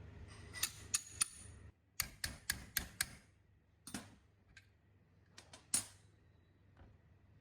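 Sharp clicks and taps of workshop handling during the restoration, some with a short high ring. A run of five comes about three a second near the middle, with scattered single taps around it. A low background hum cuts off about two seconds in.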